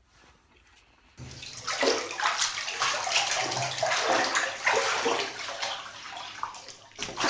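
Water splashing and sloshing, starting about a second in and going on irregularly for several seconds.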